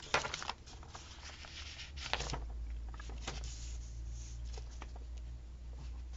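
Paper stickers and planner pages being handled: scattered short rustles and light taps, the strongest about two seconds in, over a low steady hum.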